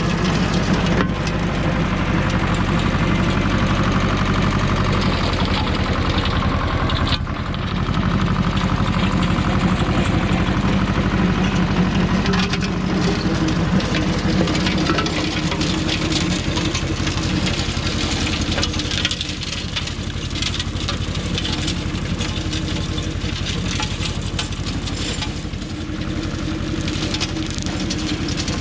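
Goldoni 933 RS DT tractor's engine running steadily under load while driving a chain flail weeder, with the steady clatter of the 13 mm chains thrashing through rockrose brush. The sound dips briefly a little after seven seconds.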